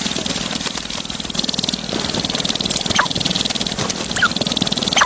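Animal calls: a dense, steady chatter with a few short rising chirps about three seconds in, again a second later and at the very end.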